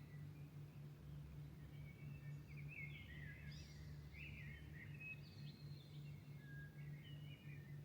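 Faint birdsong: short, varied warbling and chirping phrases, one after another, over a steady low hum.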